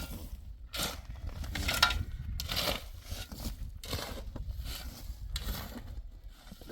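Irregular scraping and crunching noises, a string of short strokes each about half a second long, over a low steady rumble.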